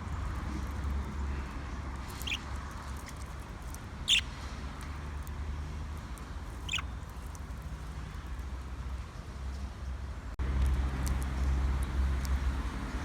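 Budgerigars giving three short, high chirps a couple of seconds apart, over a steady low rumble that gets louder about ten seconds in.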